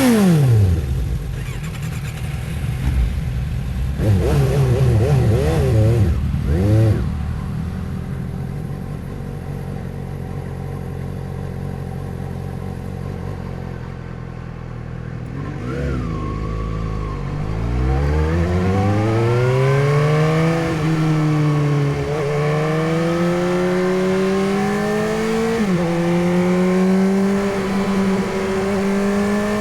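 Suzuki GSX-S750's inline-four engine on a ride. It slows with a falling pitch and a few quick rev blips on downshifts, runs low and steady for several seconds, then accelerates hard with a rising pitch, dropping sharply with each of several upshifts.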